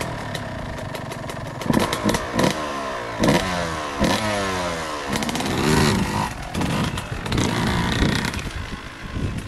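Motocross dirt-bike engines revving hard on a track, the pitch climbing and dropping repeatedly as the throttle is worked and gears change.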